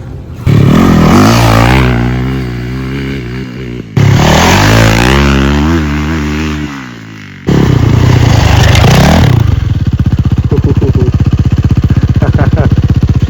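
Yamaha dirt bike engine revving hard in three loud runs, each winding down in pitch, with abrupt jumps in level about half a second, four and seven and a half seconds in. After that it runs steadily with a fast, even pulse.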